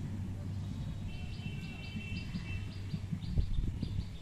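A bird chirping in a quick run of short repeated notes, starting about a second in, over a steady low outdoor rumble.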